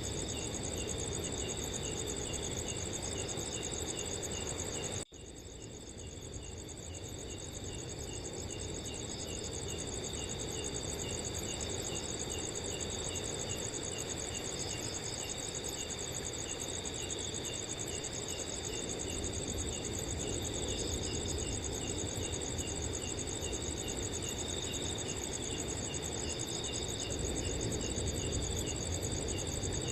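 A chorus of crickets chirping steadily, several trilling at once with evenly repeated pulses, over a low rush of wind. About five seconds in the sound cuts out for an instant, then fades back up over the next few seconds.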